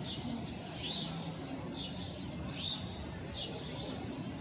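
A songbird chirping over and over, one short curved note roughly every 0.7 seconds, over a low, steady outdoor traffic hum.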